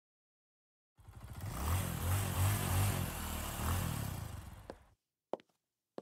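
A loud rumbling sound effect with a low throb, starting about a second in and fading away after about four seconds, followed by the first couple of footsteps.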